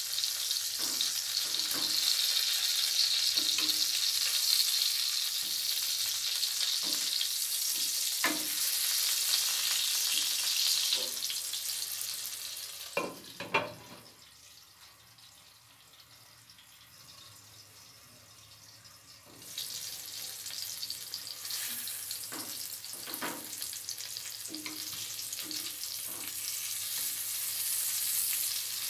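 Oil sizzling loudly around eggplant slices frying with egg in a nonstick pan, with scattered taps of a plastic spatula. About 13 s in a glass lid clatters onto the pan and the sizzling drops to a faint, muffled hiss; about 19 s in it comes off and the loud sizzle returns.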